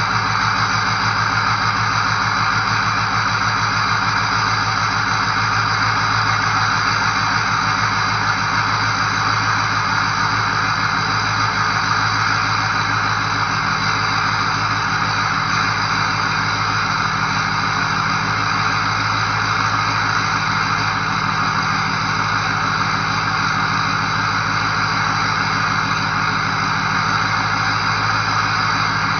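A 2004 Ford F-250's 6.0L Powerstroke V8 turbodiesel idling steadily at low idle shortly after a 15°F cold start, with a steady turbo whistle over the engine.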